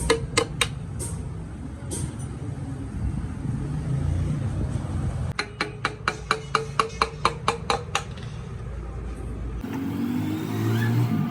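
Two quick runs of sharp clicks, about six a second, over a low steady rumble: workshop tool noise.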